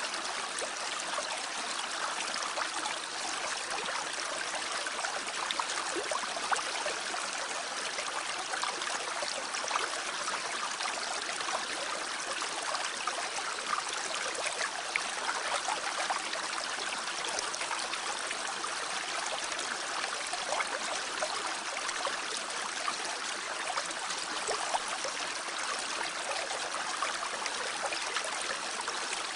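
Mountain stream flowing over rocks: a steady, even rush of water with small splashes scattered through it.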